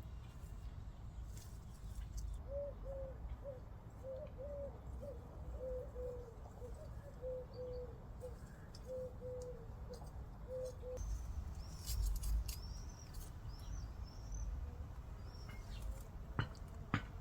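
Birds calling outdoors: a run of short, low notes repeated for several seconds, then a few higher chirps. A few sharp clicks come near the end.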